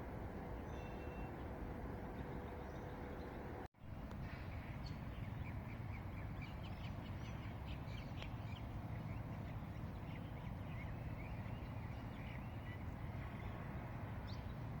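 Outdoor park ambience: a steady low background hum, then many short bird chirps and calls after the sound drops out for an instant about four seconds in.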